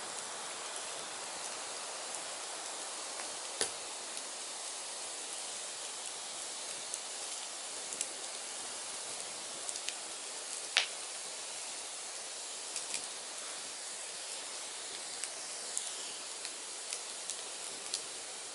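Firewood burning: a steady hiss with irregular sharp crackles and pops, one louder pop a little past the middle.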